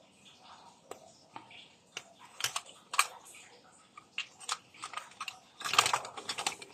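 Clicks, taps and crackly rustling from small objects being handled, with a denser burst of rustling near the end.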